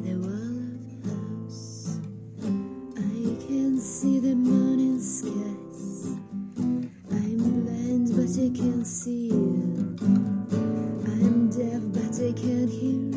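Instrumental intro of a song: acoustic guitar strumming chords, with a wavering melody line over it.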